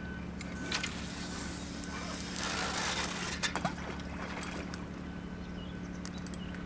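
A heavy feeder rod being cast: a swish and then line hissing off the reel for about two and a half seconds, ending in a few sharp knocks. Under it runs a steady low motor drone.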